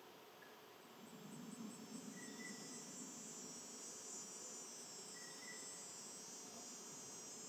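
Faint, steady high-pitched insect trilling that sets in about a second in, with two brief faint notes partway through.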